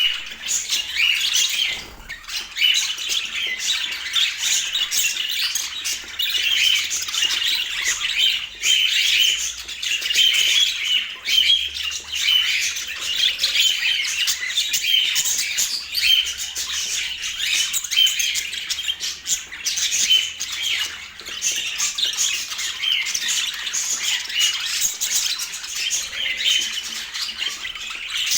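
Budgerigars chattering without a break, many quick high chirps overlapping.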